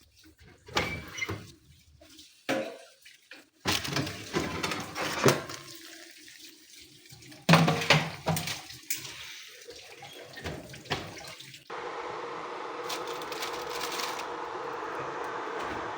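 Kitchen handling sounds, irregular knocks and clatter, then a water tap running steadily into a sink for the last four seconds or so.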